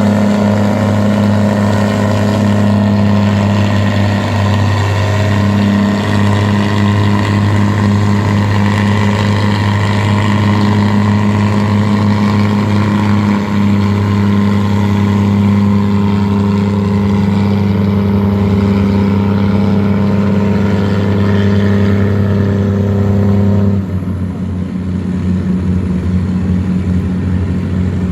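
Tugboat's diesel engine running steadily, with a deep, even drone. Near the end it eases off a little and its sound becomes rougher.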